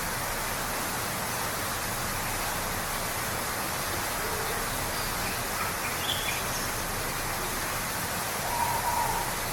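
Steady rush of a waterfall, with a few brief bird calls over it; the clearest call comes near the end.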